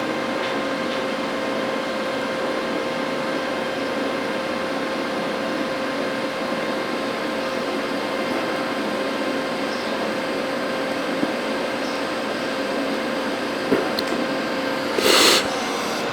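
TIG welding arc on stainless steel, a steady hiss with a faint even hum. A short louder burst comes near the end.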